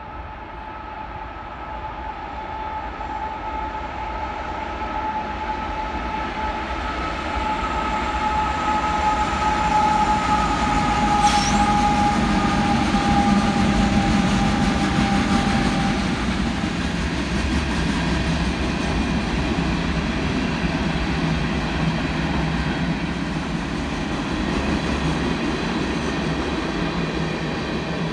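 A train passing, its rumble building to a peak near the middle and easing toward the end. A steady high tone, drifting slightly lower, sounds over the first half and dies away about sixteen seconds in. There is a single sharp click about eleven seconds in.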